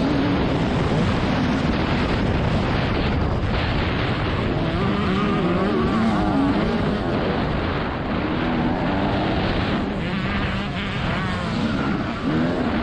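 TM 300 single-cylinder two-stroke motocross engine under race load, its pitch rising and falling again and again as the throttle is opened and closed.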